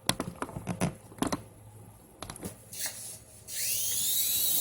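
A few handling clicks and knocks. Then, about three and a half seconds in, a toy remote-control helicopter's small electric rotor motor spins up with a rising whine and keeps running steadily.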